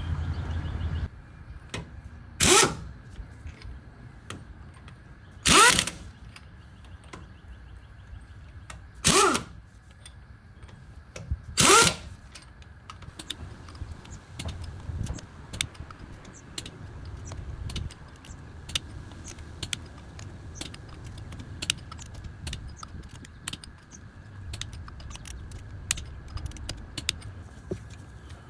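Four short bursts of a power tool, each a fraction of a second and a few seconds apart, then a run of scattered light clicks from hand tools being worked.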